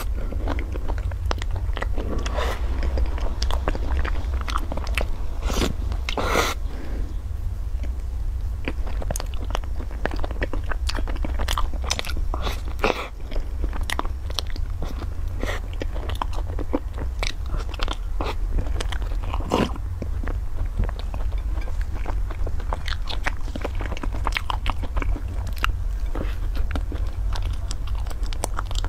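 Close-up crunching and chewing of a flaky pastry: many sharp crisp crunches and mouth sounds, over a steady low hum.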